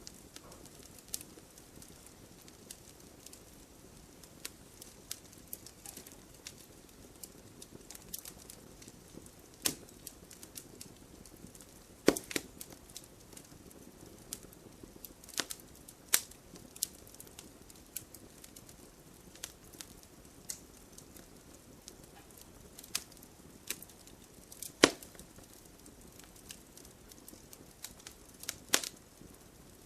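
Wood fire burning in a fireplace: logs crackling with irregular sharp pops over a soft, steady hiss, a few pops much louder than the rest.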